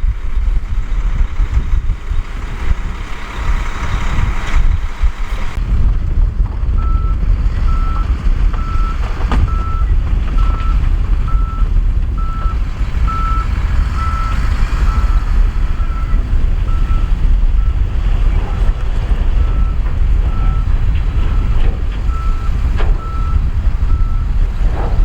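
Heavy diesel earthmoving machine running with a deep steady rumble, its reversing alarm beeping evenly a little over once a second from about seven seconds in. Before the beeping starts, a rushing hiss cuts off suddenly.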